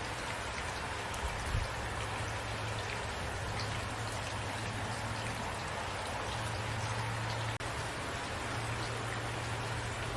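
Steady rain falling, an even hiss with scattered drops ticking close by, and a low hum coming and going underneath. The sound drops out for an instant about seven and a half seconds in.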